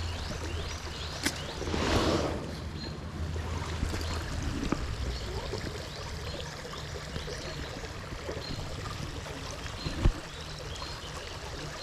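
Shallow creek water running steadily over a riffle, with a brief rush of noise about two seconds in and a single thump near the end.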